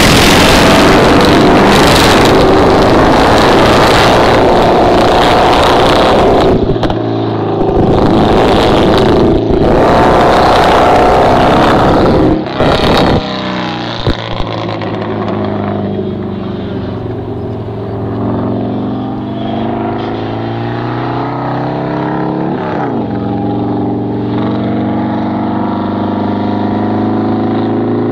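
A car engine revving up and down as it is driven hard around a coned course. For roughly the first half the sound is very loud and harsh, overloading the microphone. After that the engine is heard farther off, its pitch climbing and dropping again and again through shifts and turns.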